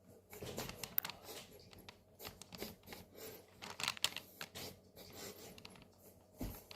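Faint, scattered small clicks and rustles, with a soft low thump near the end.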